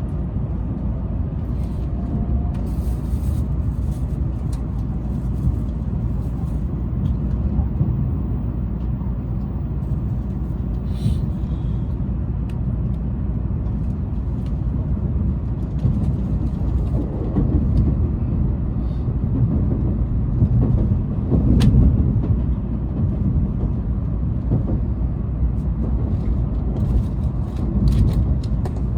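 Steady low rumble of a Tokaido Shinkansen train running, heard from inside the passenger carriage, with a few faint ticks and a sharper click and swell in the rumble about two-thirds of the way through.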